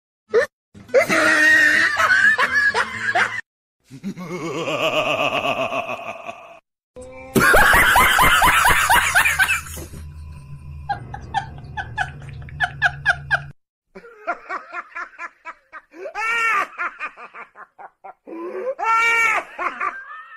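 Laughter over music, in several separate stretches that cut off abruptly, with short repeated laughing pulses in the middle and loud bursts of laughter near the end.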